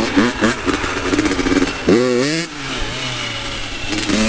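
Dirt bike engine revving in quick throttle blips, then one longer rev that climbs and falls about two seconds in, settling to a steadier lower note before the quick blips return near the end.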